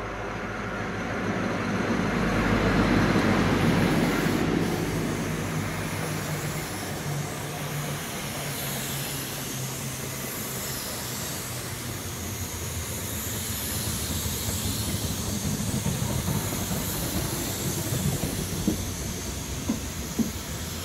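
A High Speed Train passing through: the Class 43 diesel power car is loudest about two to four seconds in, its engine note fading as the Mk3 coaches roll by with steady wheel-on-rail noise. A few sharp clacks come near the end.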